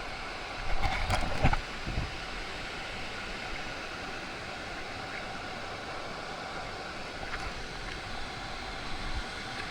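Steady rush of a waterfall, with a few knocks or bumps about a second in.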